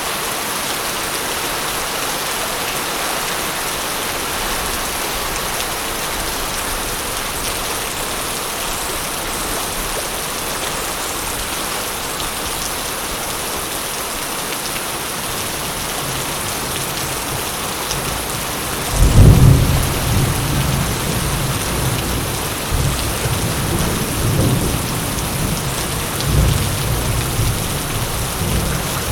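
Steady heavy rain. About two thirds of the way through, a sudden deep clap of thunder breaks in, then rolls on in swells of rumbling to the end.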